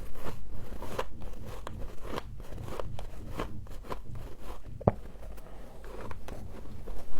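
Humidifier frost being bitten and chewed close to the microphone: an irregular run of crisp crunches, a few a second, with one sharper crunch about five seconds in.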